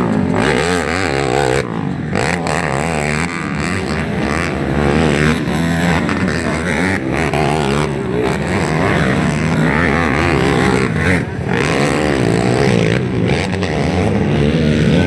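Several motocross dirt bikes racing, their engines revving up and down over one another as the riders accelerate and back off.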